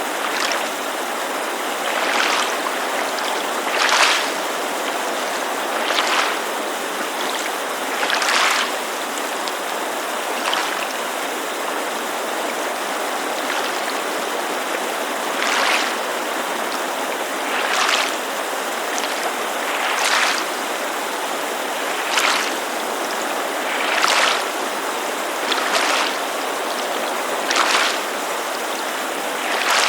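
Small waves lapping against a lakeshore in short splashes about every two seconds, with a pause of a few seconds partway through, over the steady rush of a mountain creek.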